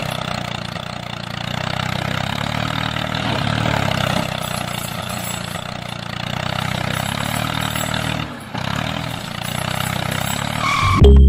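Small engine of a DIY mini tractor running steadily, its level slowly swelling and easing, dropping out briefly about eight seconds in. Music starts just at the end.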